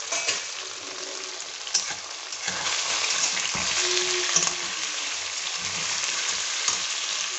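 Pieces of boiled gram-flour (besan) dough sizzling in hot oil in a kadhai, stirred and turned with a spatula that knocks against the pan a few times. The sizzle grows louder about two and a half seconds in. The pieces are being fried until they turn reddish.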